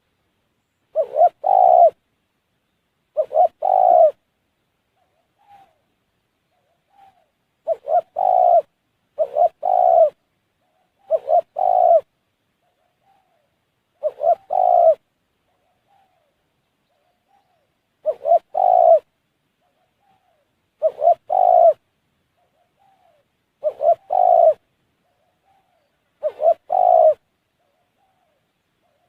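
Spotted dove (tekukur) cooing: short, clipped coo phrases of a few notes each, about a second long, repeated every two to three seconds.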